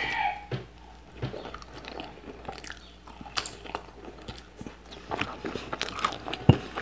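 Close-miked chewing and wet mouth sounds of someone eating a plate of rice, meat, vegetables and fries, with small irregular clicks throughout and one sharp knock near the end.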